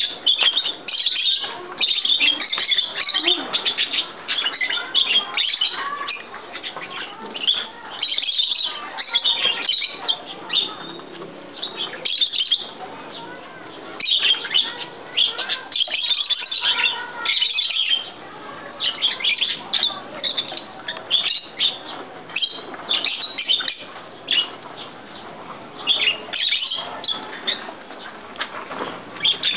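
Many birds chirping and chattering at once, a dense run of short overlapping high calls.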